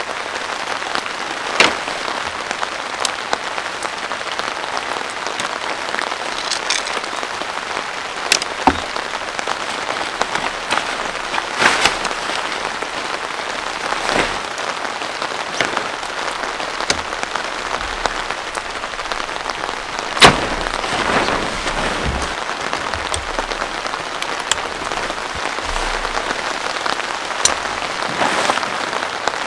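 Heavy rain falling steadily without a break, with single louder drops striking every few seconds.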